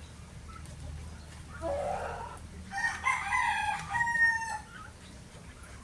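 A rooster crowing once: a call of about three seconds that ends on a held note.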